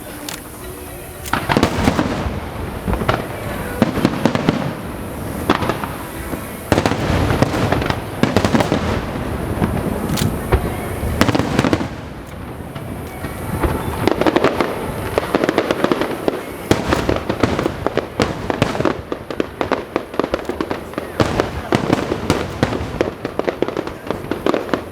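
Aerial fireworks display: shells bursting one after another with sharp bangs and crackling, growing denser through the second half.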